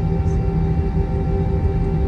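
Airbus A321 cabin noise on the ground before takeoff: a steady engine and airflow drone, several unchanging hum tones over a low rumble.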